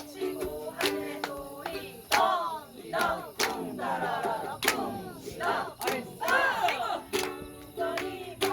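A group of people sing a song over regular strummed chords. About two seconds in, they break into loud, swooping shouts together for several seconds while the strumming goes on. The steady singing returns near the end.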